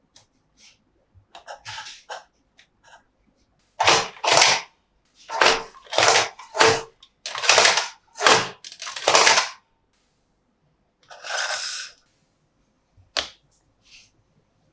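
A plastic toy playset being handled: a quick run of about ten sharp plastic clacks and snaps, followed by a longer rustling clatter and one last click near the end.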